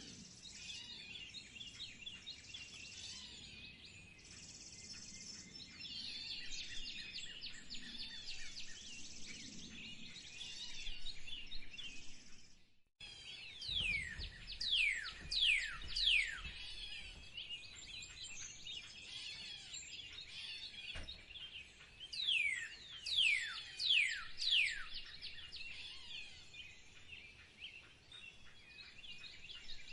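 Songbirds chirping and calling in a busy chorus. After a short break about 13 seconds in, a bird gives a quick series of loud, clear whistles that each sweep sharply down in pitch, and repeats the run about eight seconds later.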